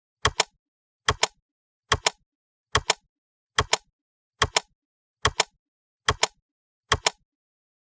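Sharp double clicks repeating evenly, nine pairs a little faster than one a second, with dead silence between them.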